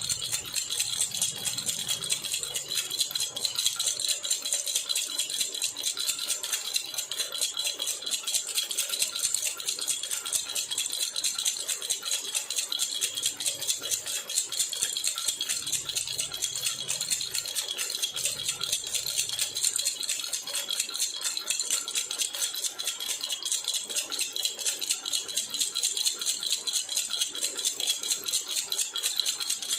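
Silver jhunjhuna (metal baby rattle) shaken continuously in a rapid, even jingle.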